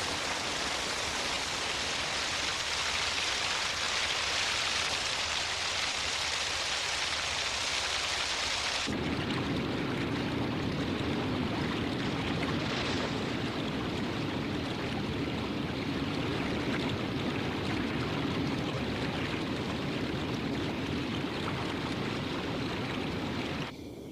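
Heavy rain falling in a steady hiss. About nine seconds in, the sound cuts abruptly to a deeper, fuller rush of rain, which stops suddenly near the end.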